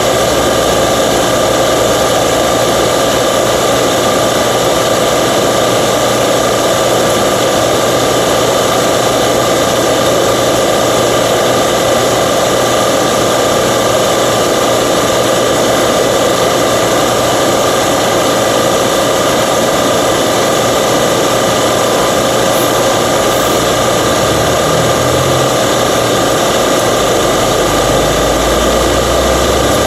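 Refrigerant recovery machine running steadily while it pulls refrigerant out of an air-conditioning condenser, a constant mechanical drone with a steady whine over it.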